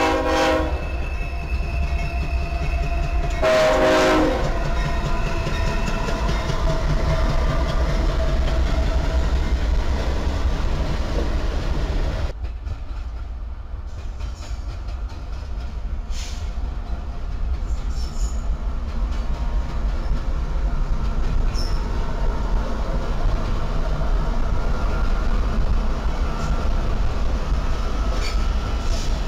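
Diesel freight locomotives passing close by. A horn sounds twice in the first several seconds over a steady low engine rumble, with wheels clicking over the rail joints.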